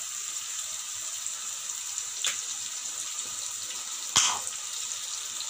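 Minced garlic and tomato purée frying in hot oil in a pan: a steady sizzling hiss. A light click comes a little after two seconds, and a sharper one about four seconds in.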